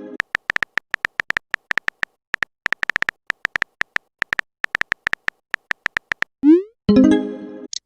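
Electronic chat typing sound effect: a rapid, irregular run of short identical beeps, several a second, as letters of a message appear. Near the end comes a quick rising blip and a short electronic message-sent chime.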